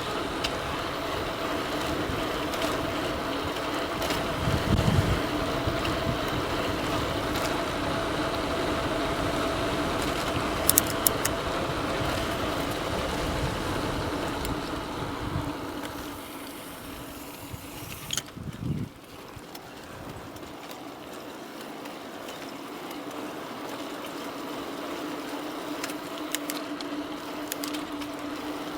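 E-bike ride: a Bafang BBS02 mid-drive motor whining steadily over wind and tyre rumble, with a few sharp clicks. About halfway through, the rumble and motor whine drop away as the bike eases off, and the whine comes back near the end.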